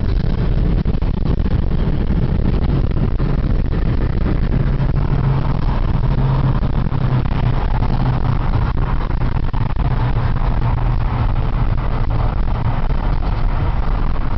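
Car engine and road noise while driving, steady and loud, with most of the sound low-pitched.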